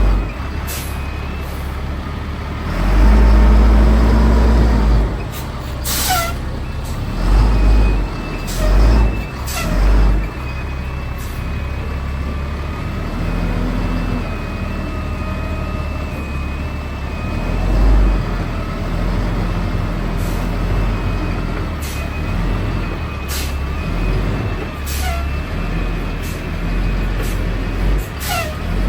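Heavy diesel truck running, its engine swelling louder several times, with short sharp hisses of air from the air brake system.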